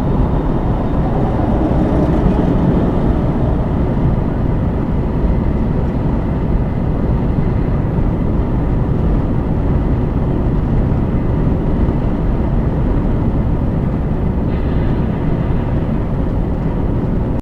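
Steady rumble of a vehicle driving at highway speed, tyre and engine noise, with no distinct impact or crash sound.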